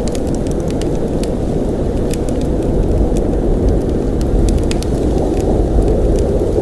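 Blizzard wind blowing as a steady low rush with a deep rumble beneath it, and scattered faint ticks on top.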